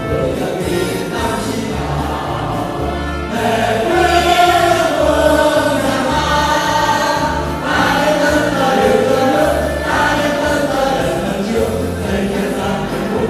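Choir singing with instrumental backing and a steady pulsing bass line; the voices come in stronger about three seconds in.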